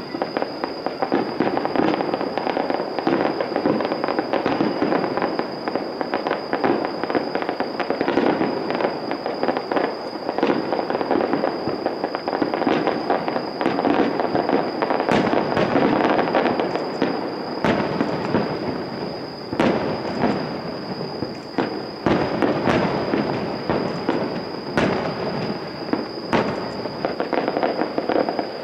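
Fireworks display: a rapid, continuous barrage of bangs and crackling, thinning near the end to a few separate bangs.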